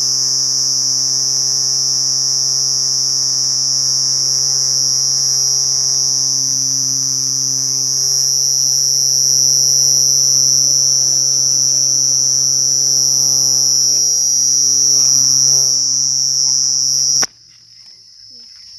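Cricket singing a continuous high trill, steady and unbroken, like an electrical buzz, over a steady low hum. Near the end the hum cuts off suddenly and the trill goes on much fainter.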